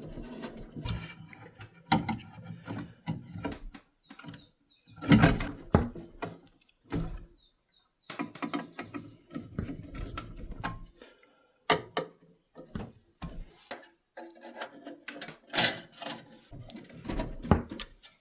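Irregular clicks, taps and scrapes of a screwdriver and screws against the metal burner assembly of a tankless water heater as it is fitted back in and screwed down, with a few louder knocks.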